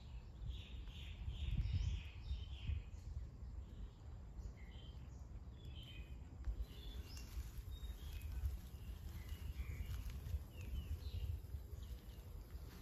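Birds chirping in short repeated calls, thickest in the first few seconds and again later, over a steady low rumble.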